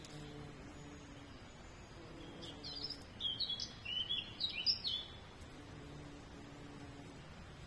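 A small songbird sings one short phrase of quick, high chirping notes lasting about two and a half seconds, starting about a third of the way in, over faint steady background noise.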